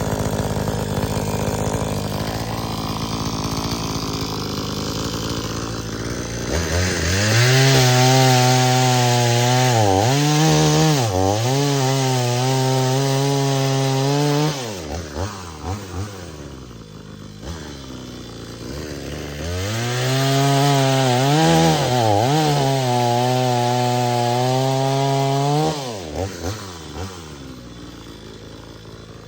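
Budget 20-inch two-stroke gas chainsaw cutting dead wood: two long bursts at full throttle, the pitch sagging and recovering as the chain loads up in the cut, with the engine dropping back to a lower speed between and after the cuts.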